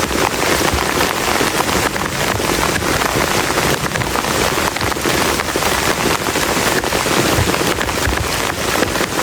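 Heavy rain falling steadily on a plastic tarp shelter: a dense, even hiss thick with individual drop hits.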